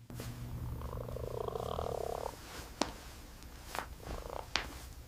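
A cat purring in a rough, pulsing stretch lasting about two seconds, followed by three sharp clicks spaced about a second apart.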